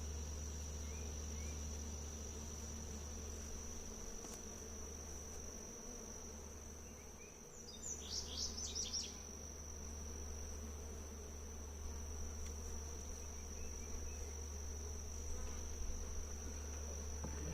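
Insects droning steadily at one high pitch, with honeybees buzzing lower down. A short run of high, falling chirps comes about eight seconds in.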